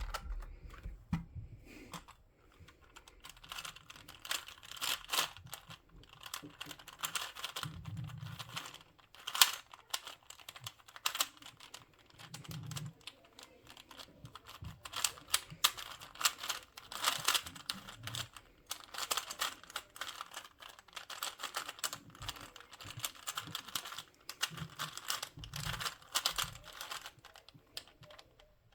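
Plastic twisty puzzle being turned by hand in quick runs of clicking and clacking, with short pauses between runs and a few soft thumps as it is handled.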